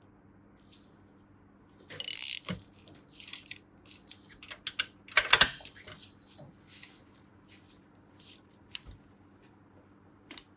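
Small metal parts and tools clinking and clattering on a workbench: a sharp clatter about two seconds in, the loudest one about five seconds in, and scattered lighter ticks and a single click near the end.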